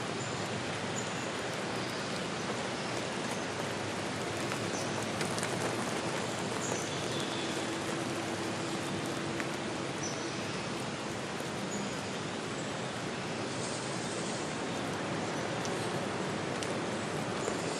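Steady hiss of rain falling outdoors, with a few faint, short high chirps now and then.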